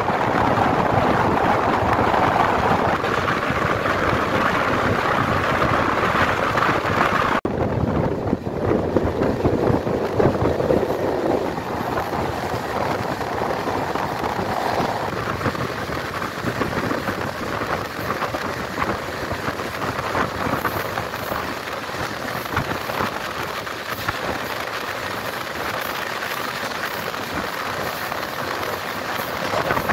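Steady rush of wind and running noise from an Indian Railways passenger coach travelling at about 110 km/h, taken at an open door with wind on the microphone. About seven seconds in, the hiss cuts out abruptly for a moment; the noise then returns and settles slightly quieter.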